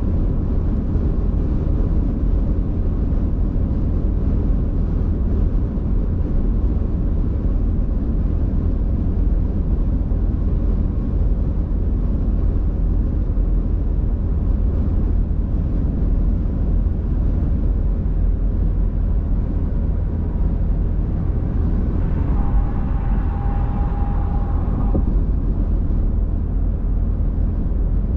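Steady road and engine rumble of a car being driven, an even noise heaviest in the low end. A short pitched hum joins in for about three seconds near the end.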